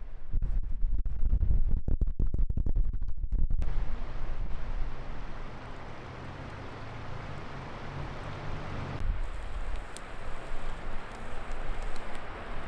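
Wind buffeting the microphone with a deep rumble, easing after a few seconds to a steady hiss with a faint low hum, then gusting again near the end.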